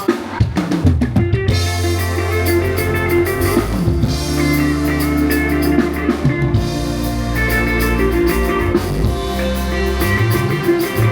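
Instrumental band music with a drum kit, bass and guitar playing through a sound system during a sound check, with no singing.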